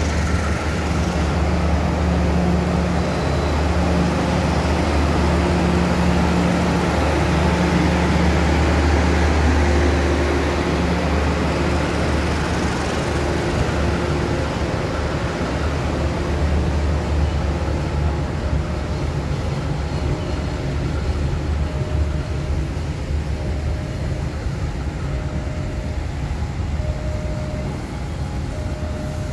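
KAI passenger train carriages rolling along the platform and pulling away: a steady low rumble with a deep hum, loudest in the first ten seconds and slowly fading as the train recedes.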